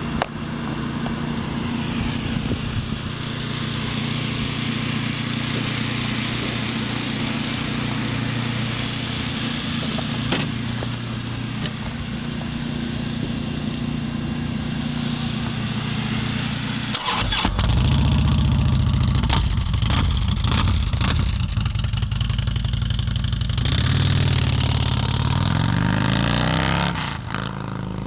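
Harley-Davidson FLHX V-twin running through Rinehart slip-on mufflers with a deep rumble. It idles steadily for most of the first two-thirds, then gets louder with a run of throttle blips and revs that rise and fall, and one longer rev near the end.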